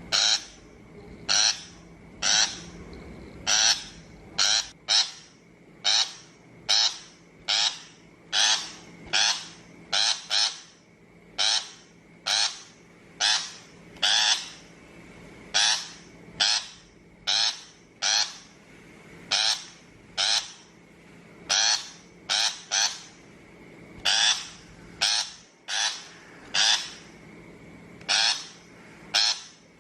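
Shrike giving short, harsh calls over and over, about once a second and sometimes in quick pairs.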